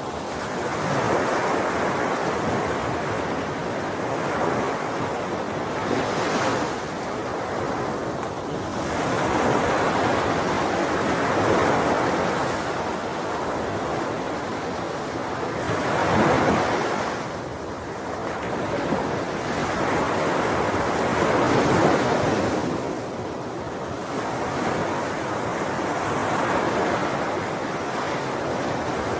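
Ocean waves breaking and washing on the shore, a continuous surf that swells and eases every few seconds.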